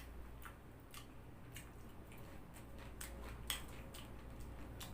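Mouth sounds of eating crispy fried chicken: faint, irregular small crunches and clicks of chewing, over a steady low hum.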